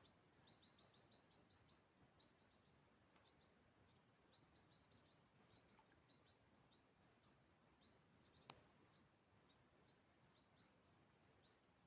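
Faint, quick chirping of small birds, many short notes repeating, with one sharp click about eight and a half seconds in.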